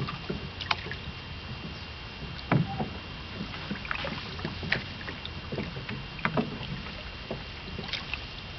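A small boat on the water, with irregular splashes and knocks over a steady low hum; the loudest knock comes about two and a half seconds in.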